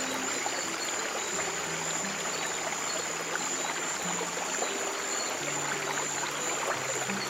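Steady flow of a trickling stream, with slow, soft low music notes held about a second each beneath it.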